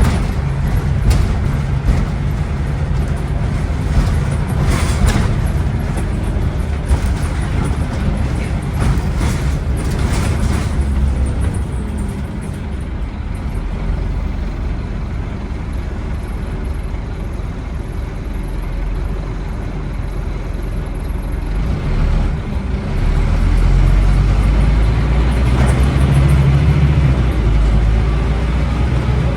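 Scania N270UD OmniCity double-decker bus's five-cylinder diesel running under way, with knocks and rattles over the first ten seconds. It goes quieter through the middle, then pulls harder again about two-thirds of the way in.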